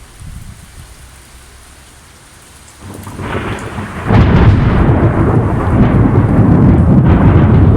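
Severe thunderstorm downburst: a low rumble at first, then about three seconds in the storm builds, and about four seconds in a loud rush of wind and heavy rain hits suddenly and keeps going.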